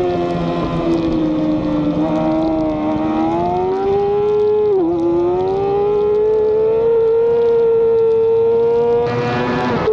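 Race motorcycle engine running hard at high revs with wind rush on the onboard microphone. The revs sag a little, then climb, dip sharply about five seconds in, and climb steadily again. The wind rush grows louder near the end.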